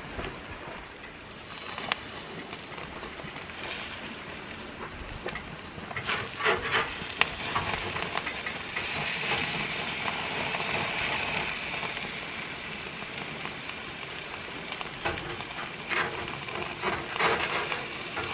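Pizza burgers sizzling on a grill, with a few sharp clicks and scrapes from turning and handling them. The sizzle grows louder about halfway through.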